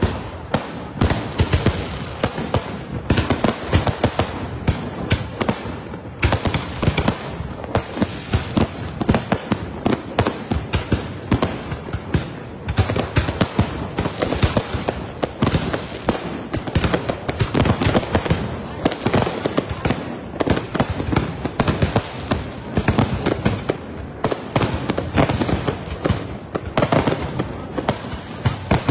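Aerial fireworks display: a dense, unbroken barrage of shell bursts and crackle, several bangs a second.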